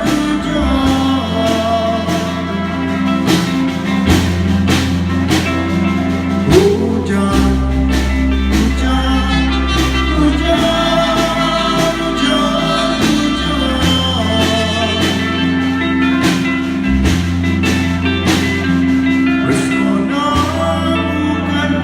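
Live band playing a song with singing, over a bass line that moves in long held notes and regular percussive hits.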